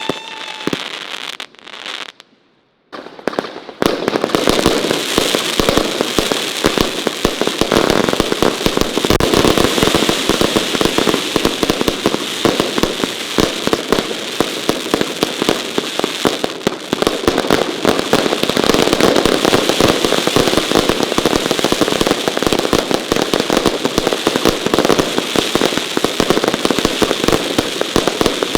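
Consumer firework battery firing a dense, unbroken barrage of rapid bangs and crackling, starting about four seconds in after a brief near-silent gap.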